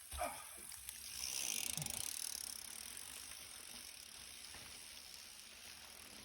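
Mountain bike ridden over a wet limestone trail, faint: a short sound right at the start, then a hissing rush that is strongest about one to two and a half seconds in and fades to a low steady noise.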